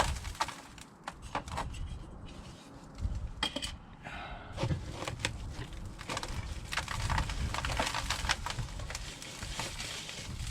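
Handling noises: a string of clicks, knocks and rubbing as parts and fittings are moved and worked by hand, with a low rumble underneath.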